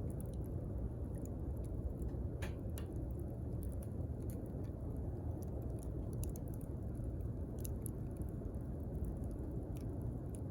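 Wood fire crackling, with scattered sharp pops over a steady low rumble of burning; one stronger pop comes about two and a half seconds in.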